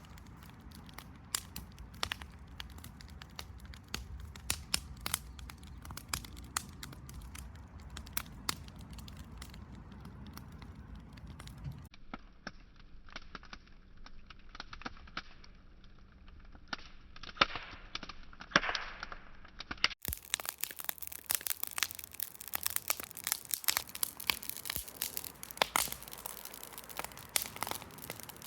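Wood bonfire crackling, with frequent sharp pops and snaps. The sound changes abruptly about twelve and twenty seconds in, where one recording gives way to another.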